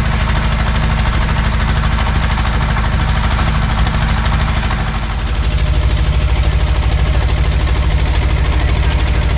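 Suzuki Thunder 250 motorcycle's single-cylinder four-stroke engine idling, with a steady, rapid, even pulse.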